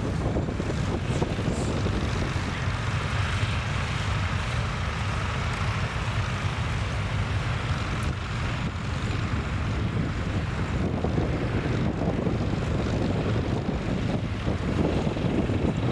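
Tractor engine running steadily under load, with wind buffeting the microphone.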